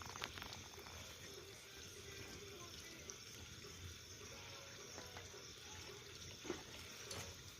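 Bonfire crackling faintly: a steady hiss with a few sharp pops.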